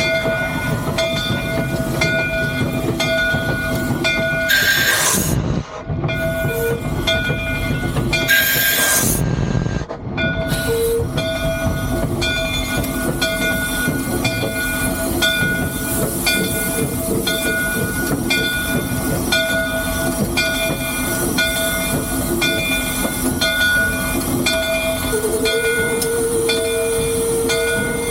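Cab sound of a three-truck Shay geared steam locomotive under way: a steady mechanical running with regular knocks about one and a half times a second. Two loud bursts of hiss come about five and nine seconds in, and a steady tone sets in near the end.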